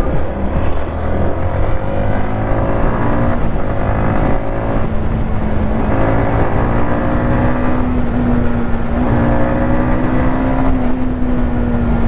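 Yamaha MT-15's 155 cc single-cylinder engine pulling on the highway: its pitch climbs in short runs broken by upshifts in the first half, then holds nearly steady at cruising speed, over a low rush of wind noise.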